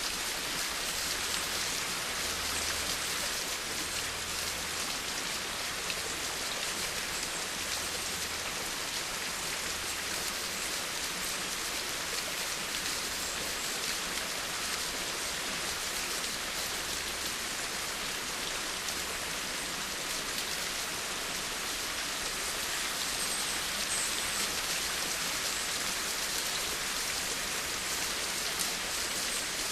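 Steady rain falling, a continuous hiss with the patter of drops hitting a surface.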